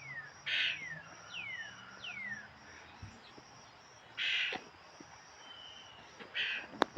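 A bird calling: a run of quick downward-sliding whistles, then short harsh rasping calls.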